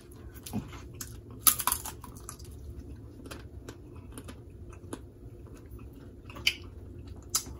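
Close-miked eating of snow crab legs: scattered sharp clicks and cracks of shell with chewing, the loudest cluster about a second and a half in and more near the end.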